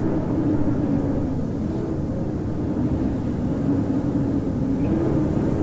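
Howling winter wind: a steady heavy rumble of gusts with a low, wavering howl that rises and falls slightly in pitch.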